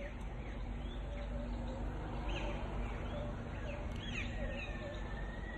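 Birds chirping: scattered short, high, falling calls, with a longer thin call near the end, over a steady low rumble.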